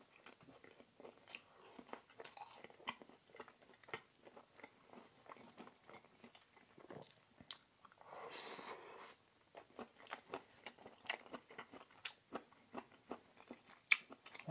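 A person chewing a mouthful of food close to the microphone, with many small irregular mouth clicks and a few crunches. About eight seconds in, a hiss lasts about a second.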